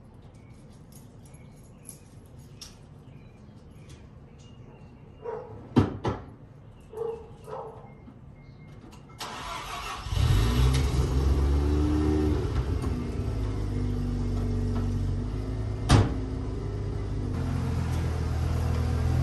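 Mazda FD RX-7's 13B twin-rotor rotary engine starting about ten seconds in, then idling and pulling the car forward at low speed. Before the start there are only a few clicks and short knocks, and there is one sharp knock near the end.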